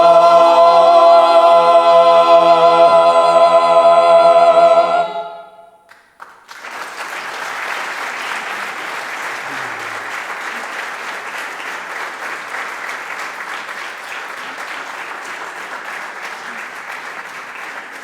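A cappella vocal ensemble holds a final chord for about five seconds and releases it together. After a short pause, an audience claps, growing gradually quieter.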